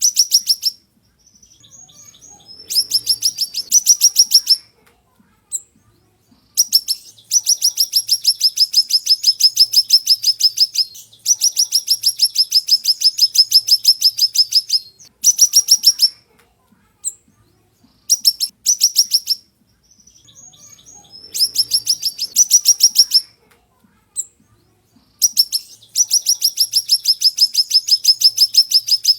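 Siri-siri songbird singing: rapid, high-pitched trills of sharp repeated notes in bouts of one to four seconds, with short pauses between them.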